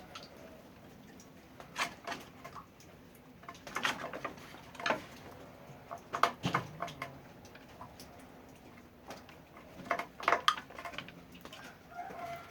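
Irregular knocks and clatters, a few at a time in short clusters, over a faint steady background.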